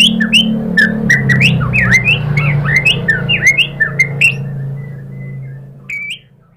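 White-rumped shama (murai batu) calling in a rapid, agitated string of sharp whistled notes with crisp ticks, about three or four a second, over a low steady hum. The calling stops about four seconds in, and one last short note comes just before the sound cuts off.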